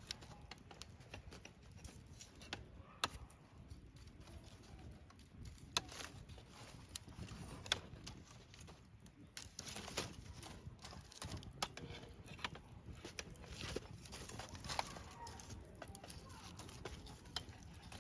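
Wood campfire crackling, with irregular sharp pops scattered through over a faint low rumble. The loudest pops come about 3, 6 and 8 seconds in.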